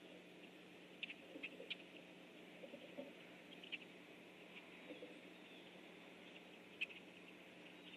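Faint short, high chirps from unidentified birds, scattered irregularly, with a cluster about a second in and a sharper call near the end.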